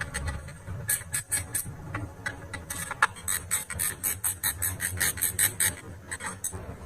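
A fast series of short scraping strokes, irregular at first, then settling from about halfway in into an even run of about five a second.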